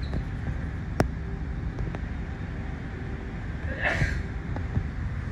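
An SMRT R151 train stands at an underground platform with a steady low rumble. A sharp click comes about a second in, and a short hiss near four seconds.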